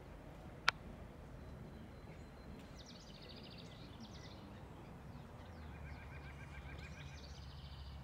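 Songbirds singing: a quick run of rapid high notes about three seconds in, and another series of fast repeated notes from about six seconds on, over a faint low rumble. A single sharp click under a second in is the loudest sound.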